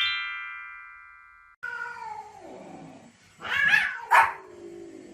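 A bright rising chime ringing out and cutting off, then a dog vocalizing: a whine that falls in pitch, followed by two loud, short barks.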